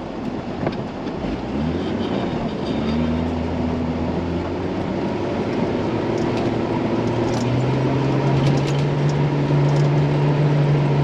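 Truck engine pulling hard under load up a snowy hill. Its note climbs about two seconds in, then holds steady and grows louder through the second half.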